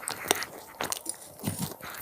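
Crunchy cheese pizza flavoured puffed snacks being bitten and chewed close to the microphone: a run of sharp crunches, several in two seconds.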